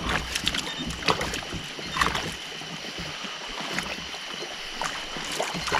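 A few scattered knocks and clicks from handling on a kayak, over a steady noise background with a faint steady high tone.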